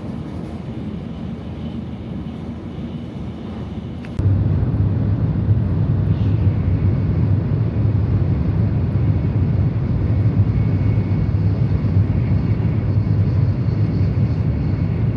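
Bullet train running noise: a steady low rumble. About four seconds in it cuts abruptly to a louder, deeper rumble.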